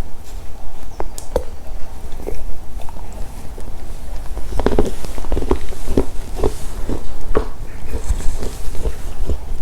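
Close-miked mouth chewing and crunching a chocolate snack, with irregular wet clicks and crackles that come thicker after about four seconds. A steady low hum runs underneath, from a badly connected microphone.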